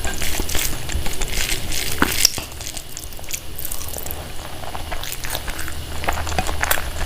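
Close-miked chewing and wet mouth sounds of someone eating big bites of food, with irregular smacks and clicks.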